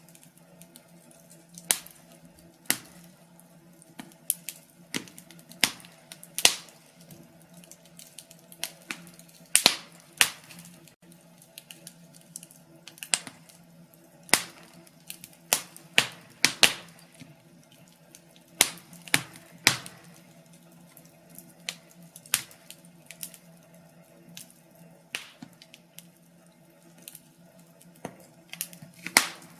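Wood fire in a fireplace crackling, with irregular sharp pops about one to two a second over a faint steady hum.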